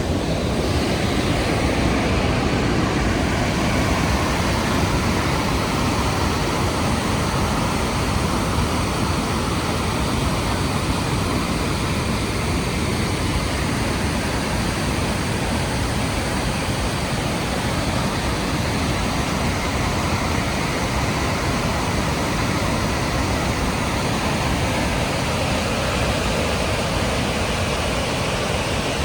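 Rushing water of the Rhine Falls: a loud, steady, even wall of noise from the falling water, without a break.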